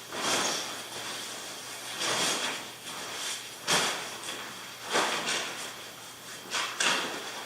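Gear being handled: a series of about five short rustling, scraping sounds, the last two close together near the end.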